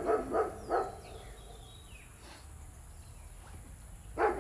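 Dog barking in a quick run of about four barks at the start. The barking breaks off for a few seconds, leaving birds calling with short falling chirps, and starts again right at the end.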